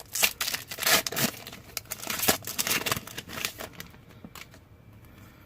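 Pokémon trading cards and foil pack wrapper being handled: a quick run of crisp flicks, slides and crinkles, thinning out and fading over the last couple of seconds.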